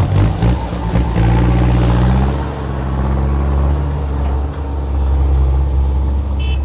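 Heavy vehicle engine running under load, its pitch rising a little about a second in and then holding steady.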